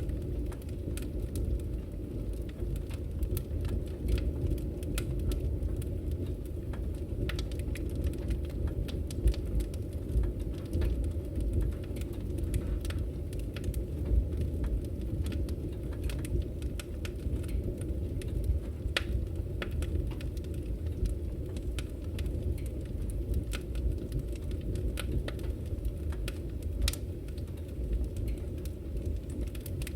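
Wood fire burning in a fireplace: irregular sharp crackles and pops from the firewood over a steady low rumble of the flames.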